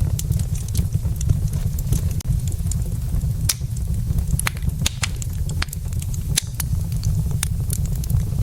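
Wood logs burning in a fireplace, crackling with many sharp, irregular pops and snaps over a steady low rumble.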